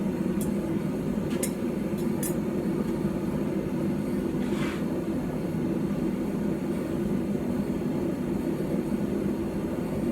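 Forge running: a steady hum with a few faint clicks in the first couple of seconds and a soft rush about halfway through, with no hammer blows.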